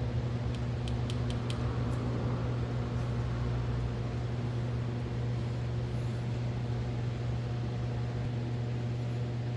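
A steady, even machine hum, typical of an electric motor or fan running. Five quick light clicks come in the first second and a half, with one more about two seconds in.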